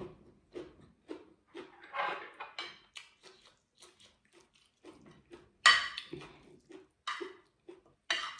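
Close-miked chewing of a mouthful of food, soft wet bites about twice a second. Then a metal spoon and fork clink and scrape on a ceramic plate, the sharpest clink a little past halfway through.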